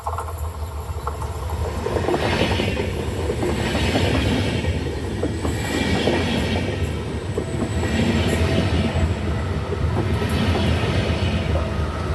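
A train running on the rails close by: a continuous low rumble of wheels on track that swells every couple of seconds, with thin steady wheel-squeal tones growing stronger near the end.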